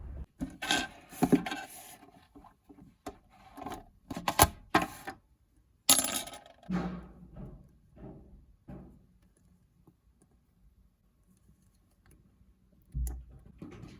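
A series of sharp clicks and knocks of small hard objects being handled, thinning out and stopping about nine seconds in, with a single low thump near the end.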